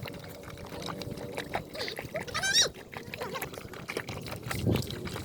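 Young animals suckling from their mother, with many quick wet smacking sounds. A short, high, wavering squeal comes about two and a half seconds in, and a louder low bump follows near the end.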